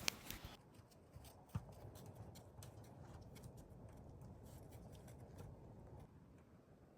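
Near silence: low room tone with faint, scattered ticks and clicks, one slightly stronger about a second and a half in.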